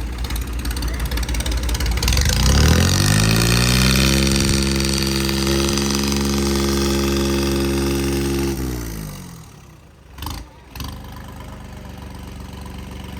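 Tractor engine revving up over about two seconds, holding at high revs for about five seconds, then dropping back to a lower, steady run. Two short sharp sounds follow about ten seconds in.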